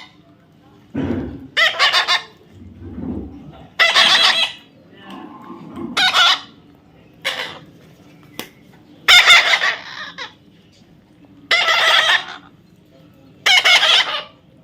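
A parrot giving loud, harsh screeching calls, about seven of them, each roughly half a second to a second long and spaced one to two seconds apart.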